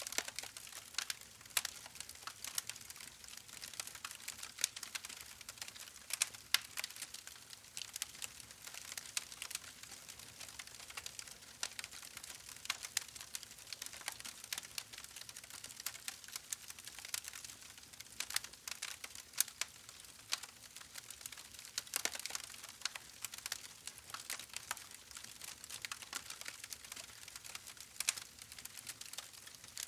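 Wood fire burning in a fireplace, crackling and popping irregularly over a faint hiss.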